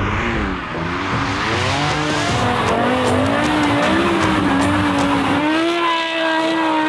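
BMW M5 E60's 5.0-litre V10 revving up and down as the car drifts sideways with its tyres skidding. About five and a half seconds in, the engine settles and holds steady high revs through the slide.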